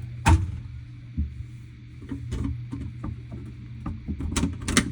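Flat screwdriver prying under a refrigerator's glass shelf to pop out its plastic retaining clip, clicking and tapping against glass and plastic: one sharp click just after the start, scattered small clicks, then a quick run of clicks near the end. A steady low hum runs underneath.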